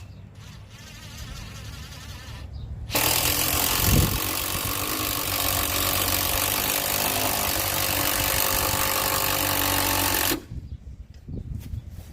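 A power tool runs loud and steady for about seven seconds, starting about three seconds in and cutting off suddenly, with a low hum before it.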